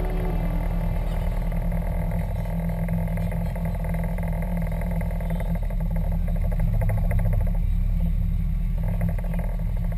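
1933 Hillman Minx's four-cylinder side-valve engine running steadily while the car moves slowly, heard close up from the outside of the car.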